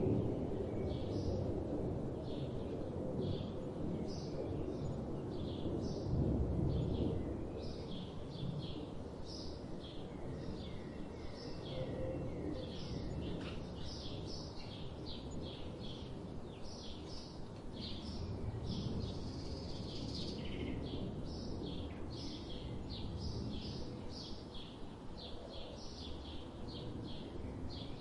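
Birds chirping: many short, high chirps repeating about once or twice a second over a steady low rumble of outdoor background noise.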